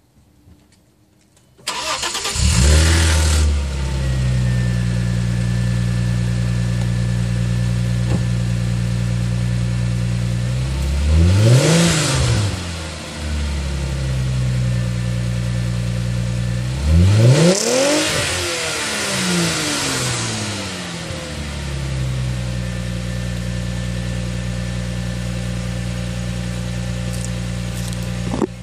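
2001 Audi A4's 2.8-litre V6 with a custom Magnaflow exhaust starting about two seconds in, flaring briefly, then idling steadily. It is revved twice, about ten and sixteen seconds in, each time rising in pitch and falling back to idle.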